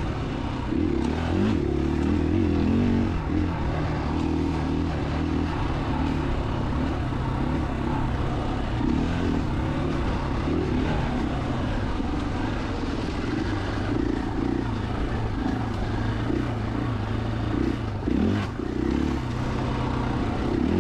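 KTM 500 EXC-F's single-cylinder four-stroke engine running steadily under way, its pitch shifting up and down with throttle, over a continuous hiss.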